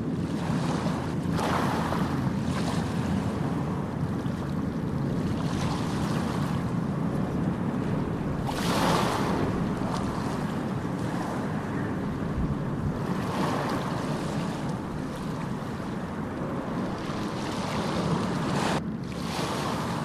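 Ocean surf: waves breaking and washing in a continuous rush, swelling every few seconds, with the loudest wash about nine seconds in. The sound drops out briefly near the end.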